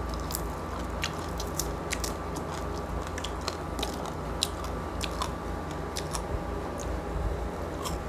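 Close-miked crunching and chewing of crispy roast pig skin (lechon), a run of irregular sharp crackles.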